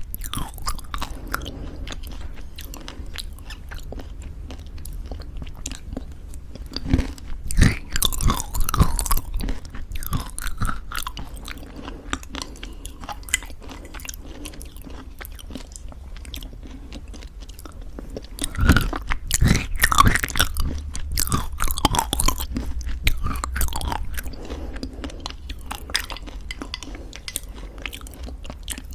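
Close-miked chewing of homemade granola in thick yogurt: crisp crunching mixed with soft, wet mouth sounds. Louder clusters of crunchy bites come about seven seconds in and again a little before twenty seconds.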